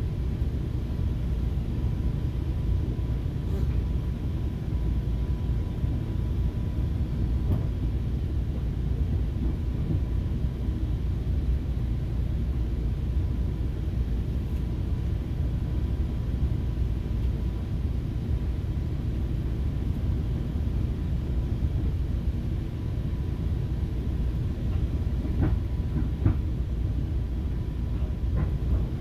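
Inside a moving FrontRunner commuter train: a steady low rumble of the train running along the track, with a faint constant tone above it and a few light clicks near the end.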